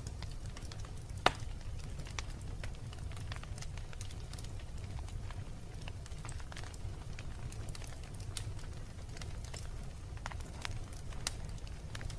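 Wood fire crackling in a fireplace: irregular sharp pops and snaps over a low steady rumble of the flames, with one louder pop about a second in.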